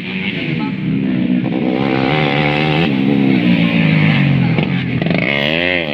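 Motocross motorcycle engines running hard and revving, their pitch swinging up and down near the end.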